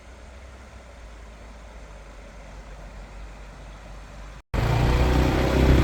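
Steady low rumble and wind-like hiss of riding along a road. After a brief cut about four and a half seconds in, the rumble is much louder.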